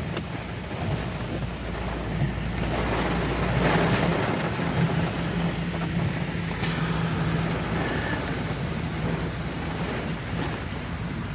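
Strong gusty wind and rain, building to a stronger gust about four seconds in, with a low steady hum underneath and a single sharp knock about halfway through.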